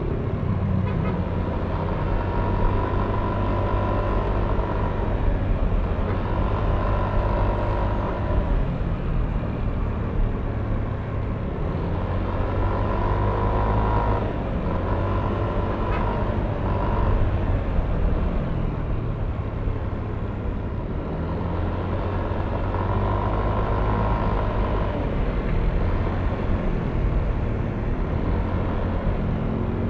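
Yamaha Aerox V3 scooter's 155 cc single-cylinder engine running under way in road traffic, its note rising and falling a few times as the throttle changes.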